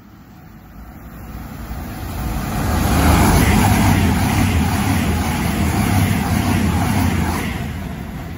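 CrossCountry Voyager diesel multiple unit passing through at speed: engine hum and wheel-on-rail noise build over the first few seconds, hold at their loudest for about four seconds as the train goes by, then fade.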